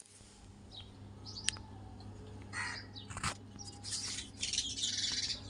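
Birds calling, several short scattered calls, over a steady low hum.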